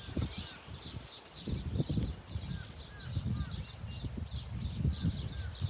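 Baya weavers chattering in rapid, high-pitched bursts without pause, with a few short whistled notes from a bird here and there. Gusty wind rumbles on the microphone.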